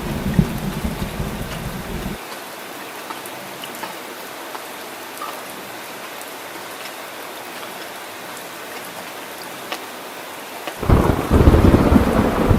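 Steady heavy rain falling, with thunder rumbling at the start that stops about two seconds in. A louder roll of thunder breaks in near the end.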